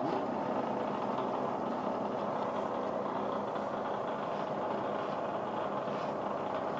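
Metalworking machine tool (mill or lathe) running steadily with a centre drill in the spindle, a continuous motor and spindle noise with a faint steady hum.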